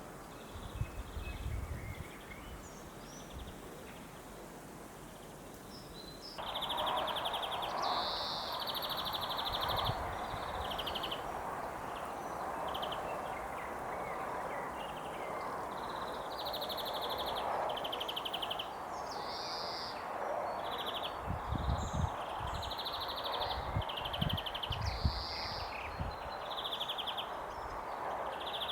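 Outdoor nature ambience: a soft steady rush with songbirds trilling over and over, which gets abruptly louder about six seconds in. A few low thumps come near the end.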